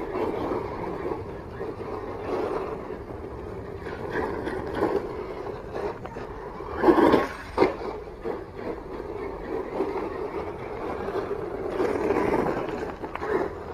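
1/10 electric RC monster truck with a brushless motor driving over rough ground: tyre and drivetrain noise, with two short loud bursts about seven seconds in and a longer surge around twelve seconds.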